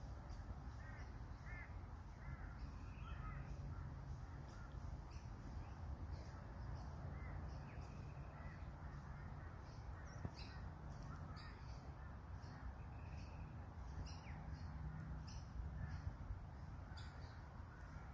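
Wild birds calling, with a run of short harsh calls in the first few seconds and scattered calls later, over a steady low rumble and a faint high ticking about twice a second.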